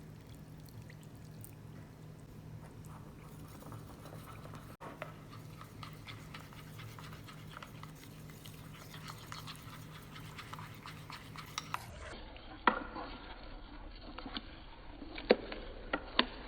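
Kitchen cooking sounds: a steady low hum under fine, irregular crackling and ticking, then a few sharp clicks and knocks of utensils or cookware in the second half.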